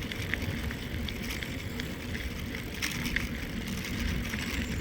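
Mountain bike rolling along the trail: a steady low rumble of tyre and wind noise on a handheld phone's microphone, with scattered light clicks and rattles from the bike.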